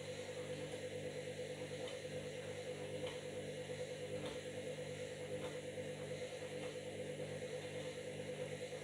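Washing machine running a wash cycle with a load of bed linen: a steady motor hum with a slight regular pulsing.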